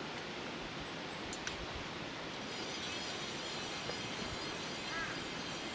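Outdoor ambience: a steady rushing hiss with small birds chirping briefly now and then, and a faint high warbling birdsong from about halfway in.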